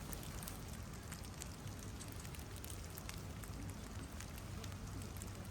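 Faint, steady outdoor background hiss with many small irregular clicks and ticks scattered through it.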